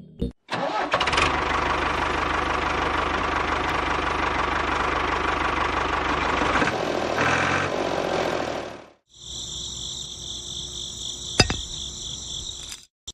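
Small engine running steadily. After a sudden cut it gives way to a quieter, high-pitched motor whine, with a single sharp click near the end.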